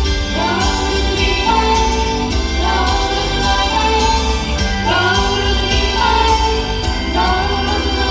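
Female idol group singing a slow pop song live with its backing music through a concert sound system; each sung phrase rises into a held note.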